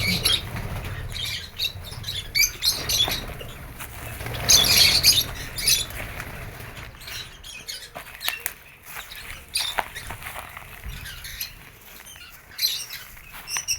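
Lovebirds chirping and squawking in short, irregular bursts, mixed with scattered clicks and rustling.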